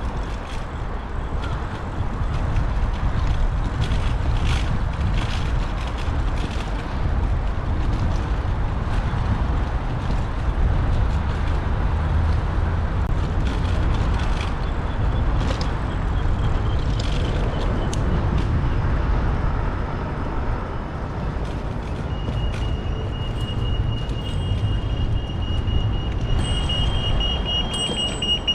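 Steady wind and road rumble on a GoPro mounted on a Brompton folding bicycle while riding through city traffic, with small rattles and knocks. A steady high-pitched tone comes in about two thirds of the way through and lasts to the end.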